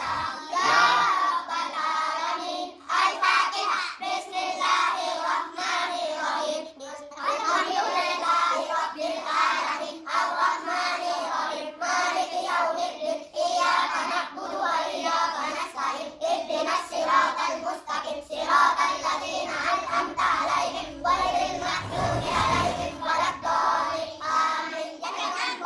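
A child's voice chanting Qur'anic recitation in a melodic, drawn-out style, with brief pauses for breath.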